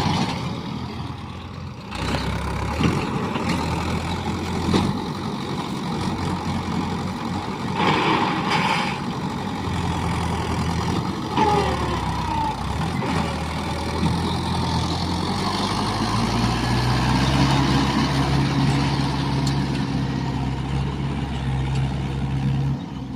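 Mahindra 585 DI Plus tractor's diesel engine running under load while pulling a loaded trolley stuck in the ground; its pitch and level climb about two-thirds of the way through as it is throttled up.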